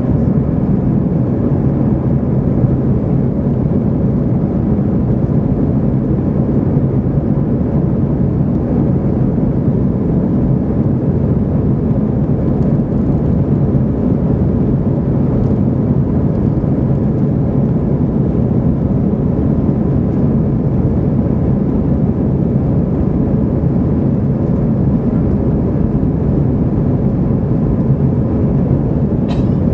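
Steady rumble of an Airbus A319 in the climb after takeoff, engine and airflow noise heard from inside the cabin, deep and unchanging. A short click near the end.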